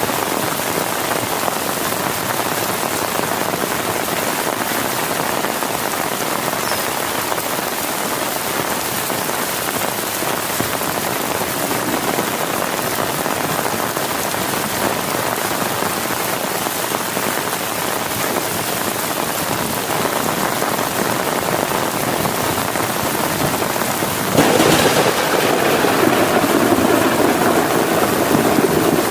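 Heavy rain pattering steadily on a tent. About three-quarters of the way in, a louder low rumble of thunder breaks in and keeps going to the end.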